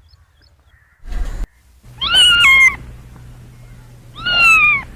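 Kitten meowing twice, two high calls about two seconds apart, each falling in pitch. A short burst of noise comes about a second in.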